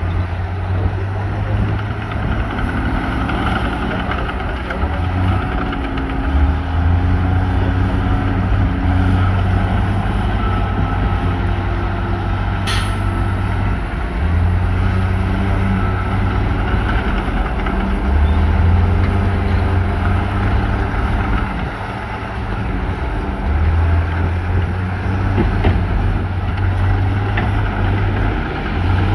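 Diesel engines of heavy earthmoving machinery running under varying load, a deep steady hum that swells and eases every few seconds. A single short sharp sound cuts through about halfway.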